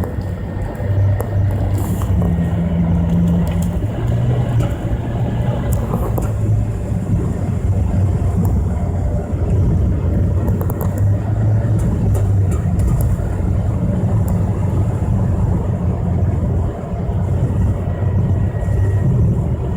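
Engine of a Nissan Kix (Mitsubishi Pajero Mini) kei SUV running while driving, its pitch rising and falling with the throttle, with an abnormal noise about halfway through under hard acceleration that the owner put down to a failing direct ignition coil. A light crackle runs through the whole recording; it comes from the recording itself, not from the car.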